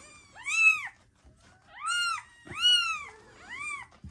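Newborn kitten mewing: four high, thin cries, each rising and then falling in pitch.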